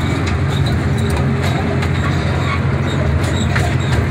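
Park tour train running along its track, heard from an open-sided passenger car: a steady low engine drone with a few light clicks.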